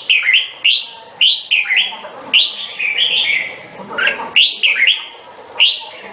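Red-whiskered bulbul singing: loud, short whistled phrases of quick rising and falling notes, repeated with brief pauses between them.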